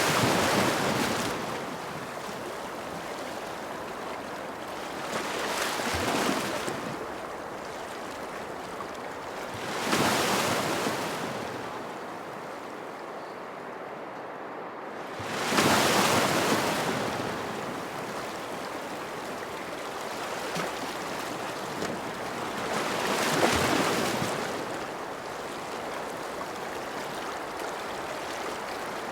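Ocean waves breaking on a shore, a steady wash of surf with a wave swelling and fading every five to seven seconds, five in all.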